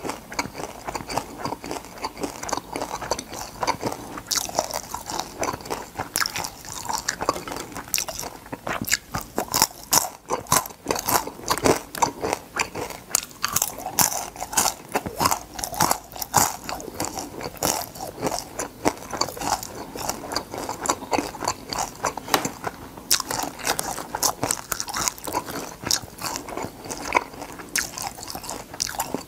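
Chewing and crunching of crisp deep-fried crab pieces, the shells cracking between the teeth in a dense, irregular run of sharp crunches.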